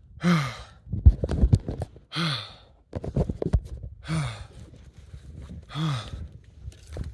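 A man breathing hard, with a loud voiced sigh on each exhale about every two seconds, each sigh falling in pitch. Between the breaths come short knocks and crunches.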